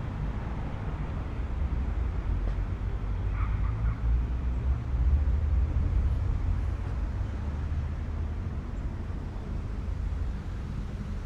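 Street traffic on a city street: a low rumble of passing vehicles that swells about five seconds in and then eases.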